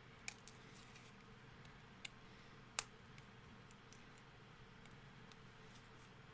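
A few sharp, light clicks and taps of a CD box set's plastic packaging being handled, the loudest near three seconds in, over a faint steady hum.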